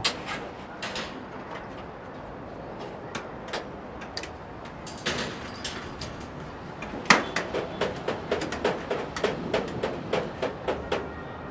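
Hammer blows during roof and chimney work: a few scattered knocks, then from about seven seconds in a quick run of strikes, about four a second, the first one the loudest.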